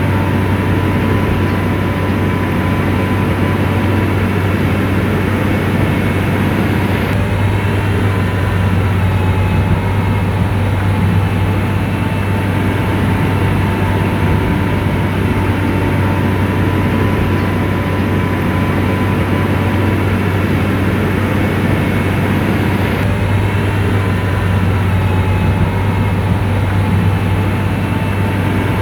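Komatsu bulldozer's diesel engine running steadily and loud, a deep hum with a faint steady whine above it.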